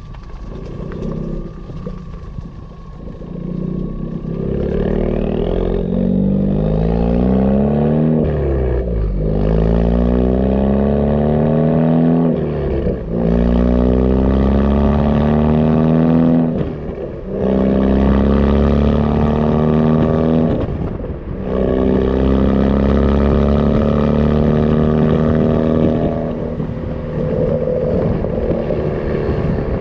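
2016 Ford Focus ST's turbocharged 2.0-litre four-cylinder, breathing through an AWE Touring Edition non-resonated cat-back exhaust, accelerating hard up through the gears. The engine note climbs in pitch, drops briefly at each of four shifts about four seconds apart, then settles into a steadier cruise near the end.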